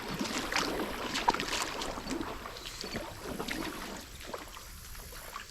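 Footsteps splashing and crunching through shallow river water, irregular and uneven, growing fainter toward the end.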